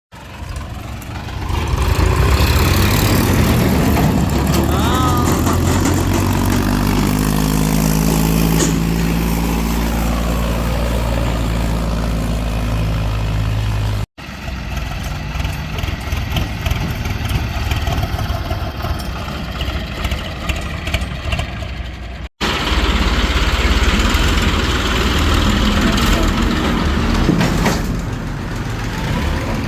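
Diesel tractor engines running. In the first stretch the engine revs up, its pitch rising in steps. The sound breaks off abruptly twice as one clip gives way to the next.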